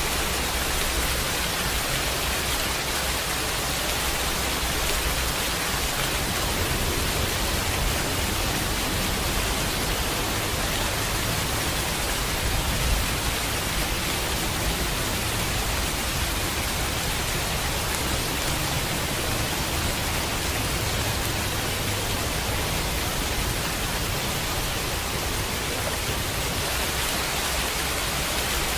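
Steady heavy rain, an even hiss, with a low rumble of thunder swelling and fading through the middle.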